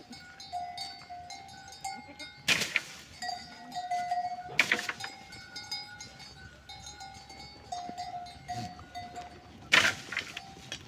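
Flock animals bleating three times, loud and short, over a steady ringing of animal neck bells.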